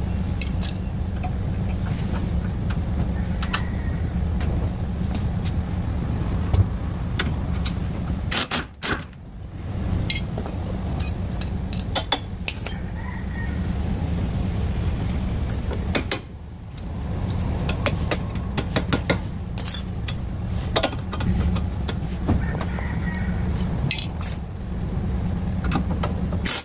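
Repeated metal clinks and knocks from tools and suspension parts being handled, over a steady low hum.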